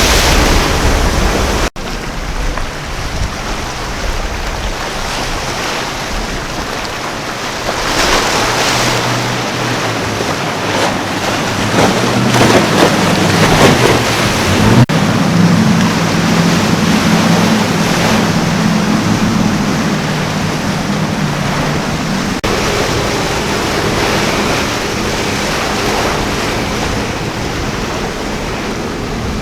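Surf and churning water with wind on the microphone, and a low engine drone of boats passing that rises in the middle and fades near the end; the sound changes abruptly a few times.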